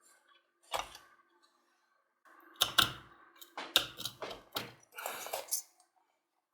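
Hard clicks and knocks of tools and the drill's plastic and metal parts being handled during disassembly of a hammer drill: five or so separate sharp knocks, then a short scraping rustle near the end.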